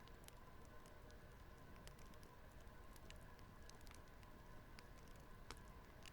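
Faint fireplace crackling: irregular small pops and ticks over a low steady hum.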